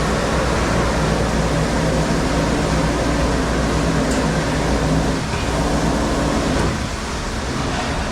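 Steady machine noise: an even rushing sound over a low hum, easing slightly about five seconds in.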